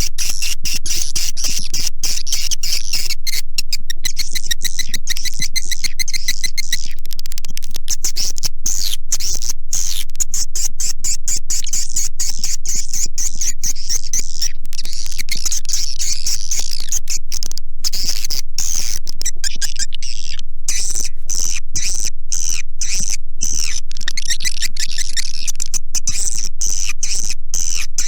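Swiftlet calling recording used to lure swiftlets into a bird house: dense, high-pitched twittering chirps and rapid clicks, loud and unbroken.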